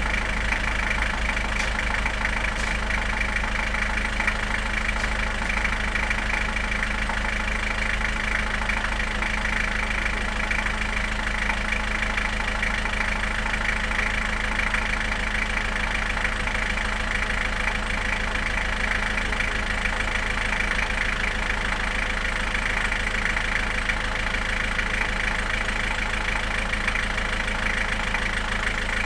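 Fiat Punto TD mk1 turbodiesel engine idling steadily through its stock exhaust and silencer.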